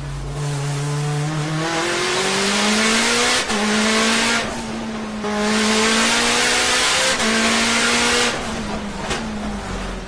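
Shelby GT500's V8 running hard, pitch climbing through the revs and stepping down at gear changes several times, with tyre noise underneath.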